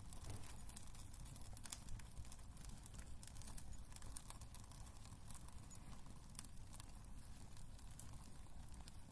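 Wood fire burning in a fireplace, crackling with scattered sharp pops over a low, steady rumble of flame; one pop about two seconds in is louder than the rest.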